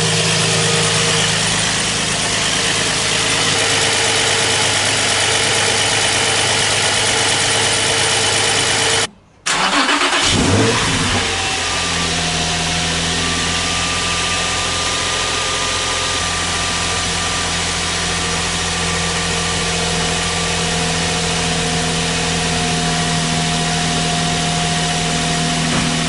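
Nissan Fairlady Z33's 3.5-litre V6 idling steadily through a Maxim Works equal-length exhaust manifold, Fujitsubo Y-pipe and Sacrum muffler. About nine seconds in the sound breaks off briefly, then the engine starts, flares up and settles back to a steady idle.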